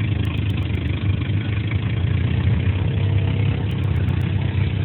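Car engine idling steadily with a low, rough rumble.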